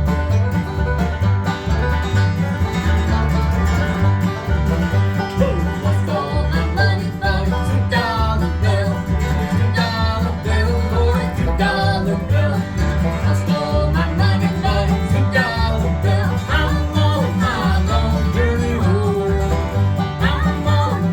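Acoustic bluegrass band playing a song: banjo and acoustic guitar over a steady upright-bass beat, with a bending fiddle-like melody line coming in from about a quarter of the way through.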